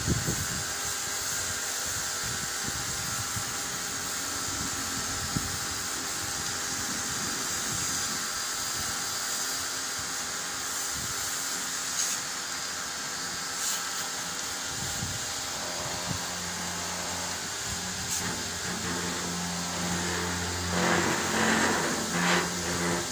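A small motor running steadily with a hiss. Deeper steady tones join about two-thirds of the way through.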